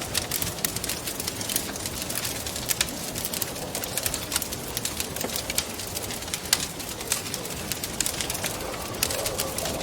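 Wood fire crackling with frequent sharp pops and snaps, over a low wind howl that rises and falls in pitch and swells near the end.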